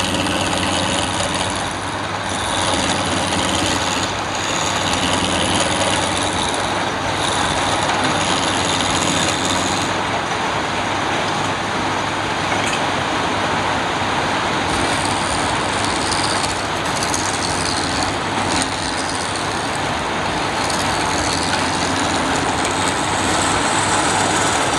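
Wood lathe running steadily: a continuous motor hum under an even, rough hiss.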